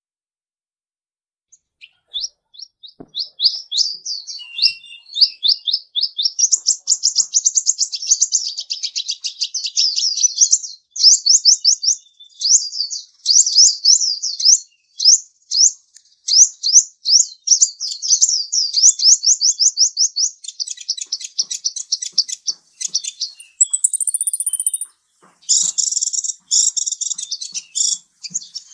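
A bird chirping in long, fast trills of short, high, rapidly repeated notes, starting about two seconds in, with a brief whistled note near the end followed by denser chatter.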